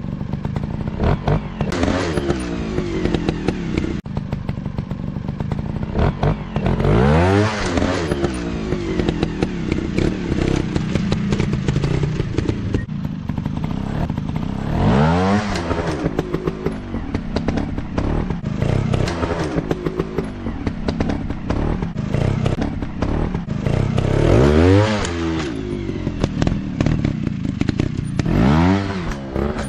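Off-road dirt-bike engines running and revving, the pitch sweeping up and back down sharply four times, with clattering from the bikes over rough ground.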